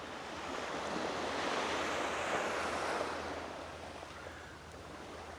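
A small wave breaking and washing up the beach, a wash of surf that swells for a couple of seconds and then fades.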